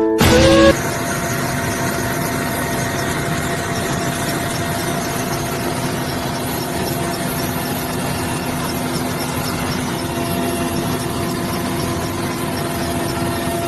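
Helicopter running steadily, a high whine over continuous engine and rotor noise, cutting in abruptly under a short stretch of music that ends in the first second.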